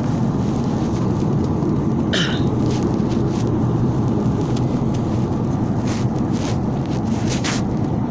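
Steady low drone of an airliner's cabin, with faint clicks and a short hiss about two seconds in.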